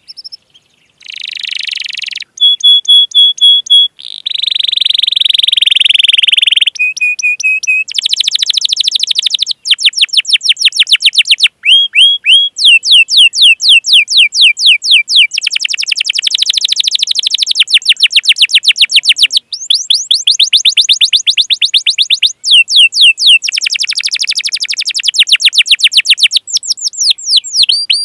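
Domestic canary singing a long, fast song: runs of rapid repeated sweeping chirps ("cuit cuit"), a buzzy rolled trill and a few short held whistled notes, separated by brief pauses.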